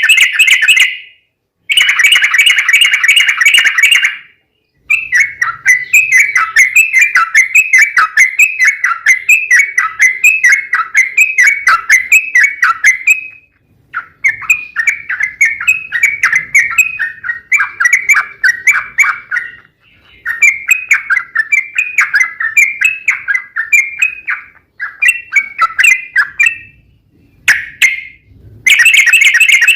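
Yellow-vented bulbul (trucuk) singing long, rapid runs of bubbly, repeated notes, about three a second, with short breaks between runs. A dense, buzzy trill at the start and again near the end. This is the long 'ropel' song used as a lure call to set other trucuk singing in reply.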